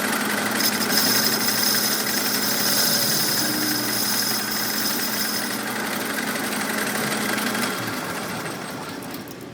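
A machine's motor running steadily with a low hum, joined for several seconds by a high hiss, then fading away near the end.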